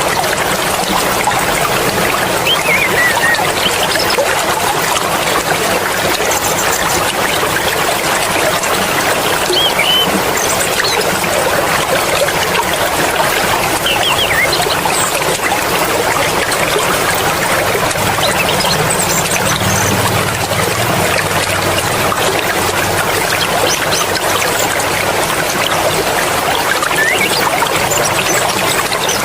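Mountain stream flowing over rocks: a steady, unbroken rush and trickle of water.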